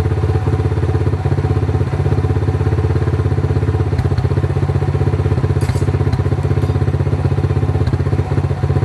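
Honda Cub's single-cylinder four-stroke engine idling steadily through a steel slash-cut aftermarket muffler, with an even, low exhaust pulse.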